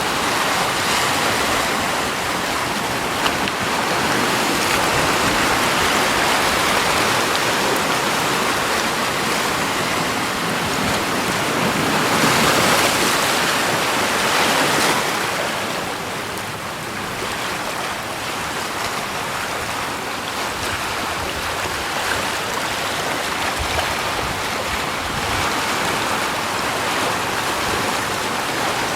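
Steady rushing water, swelling louder for a few seconds about halfway through and then easing off.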